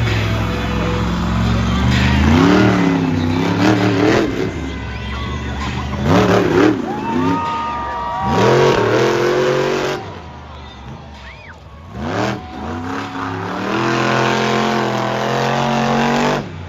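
Monster truck engine revving hard in repeated bursts, its pitch climbing and falling with the throttle. It drops away about two-thirds of the way through, picks up again, holds a long high rev, and cuts off abruptly near the end.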